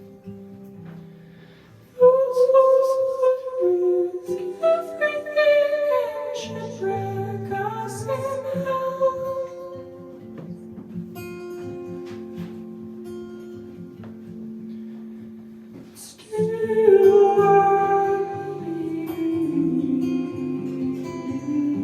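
Live band music led by guitar, with many held notes; the band comes in loud about two seconds in, drops back, and surges again about sixteen seconds in.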